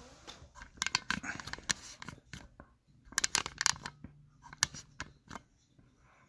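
Packaging being handled at close range: irregular crinkling and clicking in two main bursts, about a second in and about three seconds in, with a few single clicks after.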